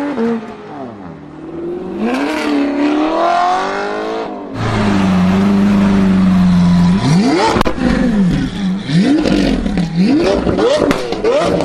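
Supercar engine revving: pitch climbing and falling as it accelerates, then held at a steady high note for about two seconds, then blipped sharply about five times in quick succession.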